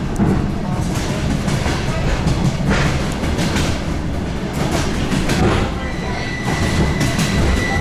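DR1A diesel multiple unit under way, heard from inside the carriage: a steady low rumble with the wheels clicking over the rail joints. A faint high steady whine comes in about six seconds in.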